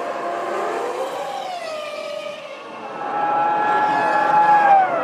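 1998 Formula One V10 engines running at high revs. The engine note slides down in pitch twice, about a second and a half in and again near the end, and gets louder and steadier from about three seconds in.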